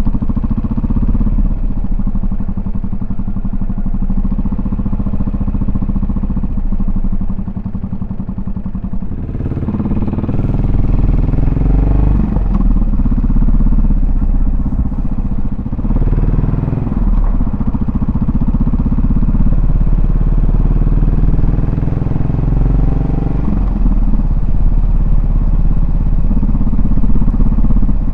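Yamaha SR400's single-cylinder four-stroke engine and exhaust running steadily at low revs, then, about a third of the way in, growing louder as the bike pulls away and the revs climb repeatedly, with a short drop at each gear change.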